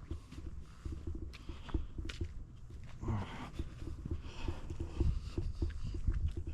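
Footsteps on rough ground: irregular low thuds with light scuffs and clicks.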